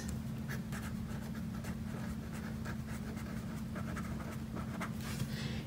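Pen writing on lined notebook paper: a series of quick, light scratchy strokes as a word is written out, over a steady low hum.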